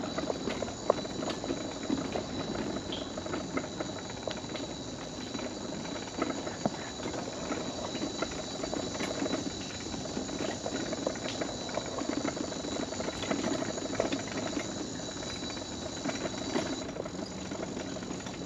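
Mobility scooter rolling along a wooden boardwalk: a continuous rattle of the wheels over the planks, with a steady high-pitched whine above it.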